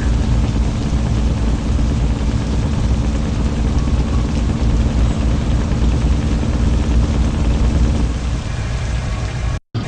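A truck engine running steadily: a heavy low rumble with a steady hum above it that fades out about eight seconds in. The sound cuts out briefly near the end.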